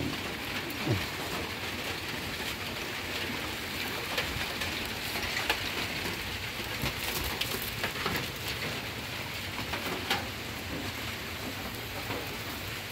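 Steady rain falling, with scattered single drip taps.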